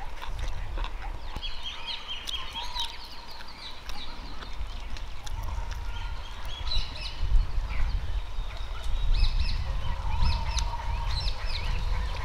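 Birds calling outdoors: many short chirps and whistled notes keep overlapping, with a low rumble underneath.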